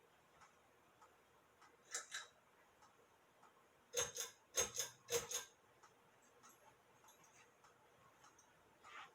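Ceiling fan pull-chain switch clicking as the fan is changed from low to medium speed. There is a sharp double click about two seconds in, then a quick run of six louder clicks in three pairs about four to five seconds in. Faint, evenly spaced ticking continues underneath.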